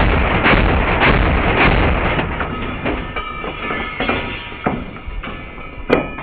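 Heavy weapons fire, one loud shot about every half second for roughly the first two seconds, then fading into quieter, scattered single shots.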